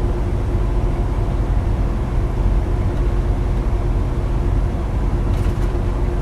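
Western Star semi-truck running at highway speed: a steady low roar of road and wind noise with a constant hum.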